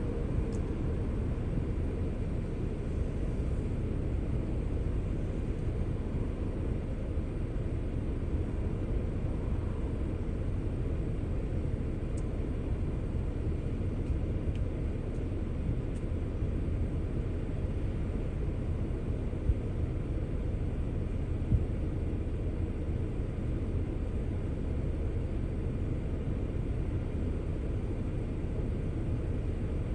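Steady low rumble of a car on the move: road and engine noise, unchanging throughout.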